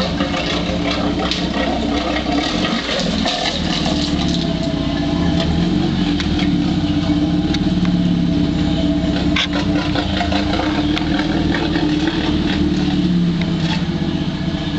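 RenaultSport Megane 225's 2.0-litre turbocharged four-cylinder running steadily at idle on its first run after being flooded, with a few sharp clicks over it.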